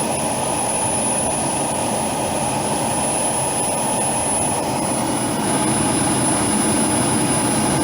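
The miniature turbine jet engine of a large RC model jet running steadily: a rushing roar with a steady high-pitched whine over it, growing slightly louder about five seconds in.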